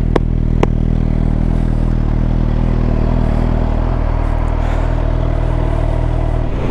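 Suzuki GSX-R750's inline-four engine idling steadily, with two sharp clicks in the first second.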